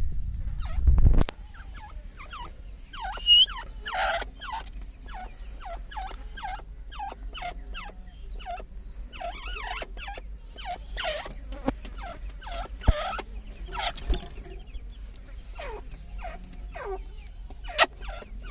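Grey francolin (dakhni teetar) calling: a long run of short, repeated calls, a few each second. A low rumble comes before it in the first second.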